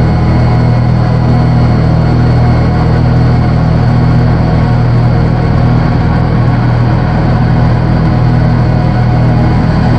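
Loud, steady electronic synthesizer drone: a deep sustained low hum with a dense, gritty noise texture layered above, barely changing over the seconds.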